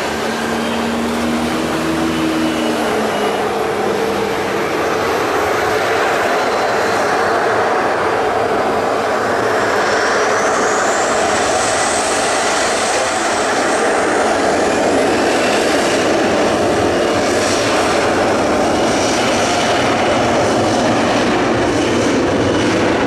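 Boeing 737-300 freighter's CFM56 turbofan engines running loud and steady, spooling up about ten seconds in with a rising whine as the aircraft throttles up for take-off.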